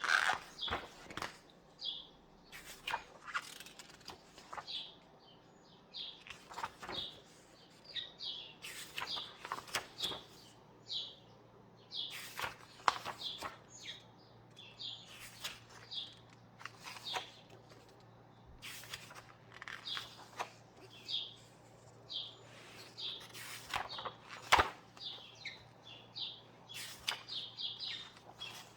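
Paper pages of a book being turned and handled, with irregular rustles and flaps, while small birds chirp over and over in the background.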